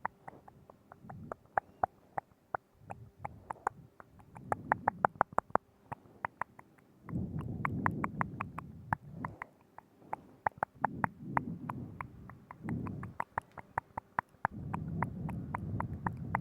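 Close-miked ASMR mouth sounds: rapid wet mouth clicks and smacks, in quick runs, broken by several stretches of lower, continuous mouth noise lasting a second or two each.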